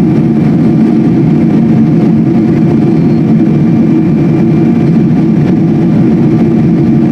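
Steady jet-engine and airflow drone inside the cabin of a Boeing 777-200 airliner, deep and unchanging, with a few faint held tones above it.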